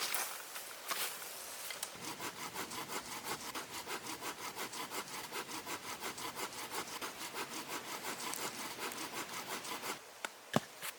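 Hand saw cutting through wood with quick, even back-and-forth strokes. The sawing stops near the end.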